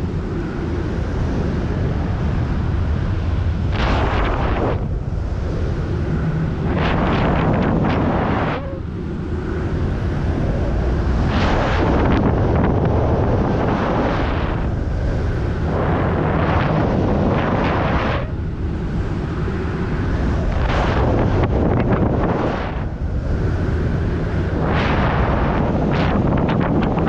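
Strong wind buffeting the microphone of a pilot in flight under a speed wing: a heavy, steady low rumble with repeated gusty surges of hiss.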